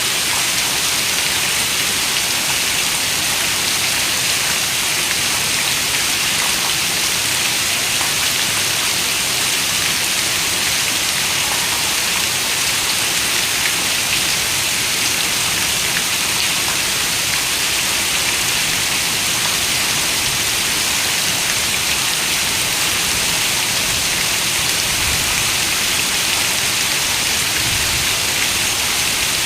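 Steady rain falling: a dense, even hiss with no breaks.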